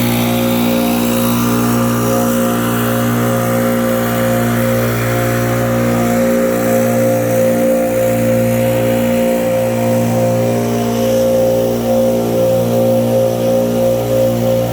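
A small engine running steadily at a constant speed, its level starting to wobble and pulse in the last few seconds.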